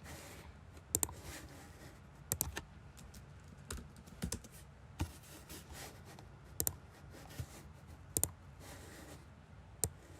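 Sharp clicks, often in quick pairs, coming every second or two, with soft rustling between.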